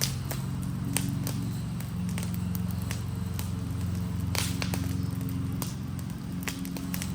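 Wooden Adirondack chair burning: the fire crackles with scattered sharp pops every second or so, over a steady low rumble.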